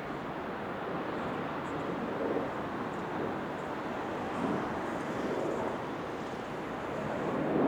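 Jet airliner engines running, a steady rushing noise that swells slightly now and then.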